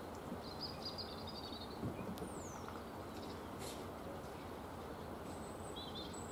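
Steady faint background hiss with a few high bird chirps and one high falling whistle about two seconds in.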